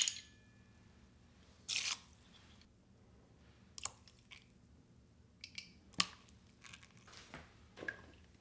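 Small handling sounds of kitchen items: a few sharp clicks and light knocks, and a short hissing rustle just under two seconds in.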